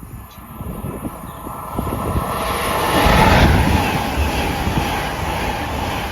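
LNER Azuma high-speed train passing through the station. A rush of wheels and air that builds from about two seconds in, is loudest about three seconds in, then stays steady as the carriages go by.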